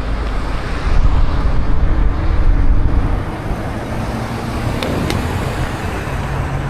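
Road traffic noise heard from a bicycle riding in street traffic, with a heavy low rumble that is strongest in the first three seconds. Two short clicks come about five seconds in.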